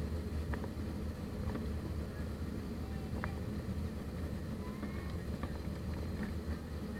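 Steady low rumble inside the cabin of an Airbus A320 on the ground before takeoff, with a few faint clicks.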